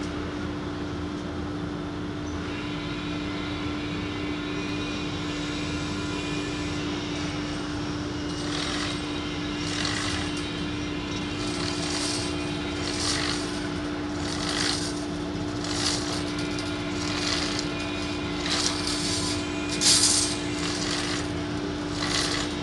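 A band saw blade protection-strip inserting machine running with a steady hum. From about eight seconds in, irregular scraping hisses come roughly once a second as the blade and plastic strip feed through.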